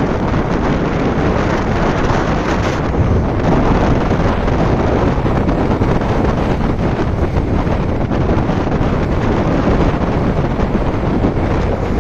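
Rough sea surf breaking and churning, with strong wind buffeting the microphone in a steady loud rumble.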